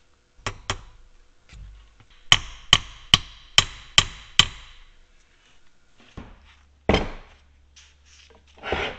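A small hammer tapping in the pin that fixes the nameplate to the cast-iron arbor press. There are two light taps, then six quick, evenly spaced ringing metal taps, a single heavier knock about seven seconds in, and a short rubbing noise near the end.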